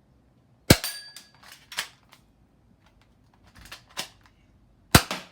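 Spring airsoft Colt 1911 pistol firing two shots, each a sharp snap, about four seconds apart, with lighter clicks between them.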